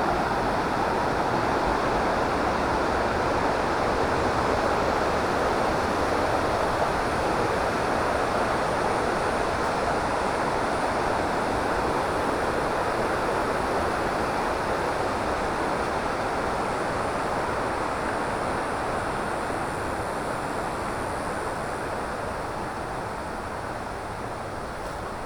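Steady rush of a jungle river flowing over rocks, gradually getting quieter over the last several seconds.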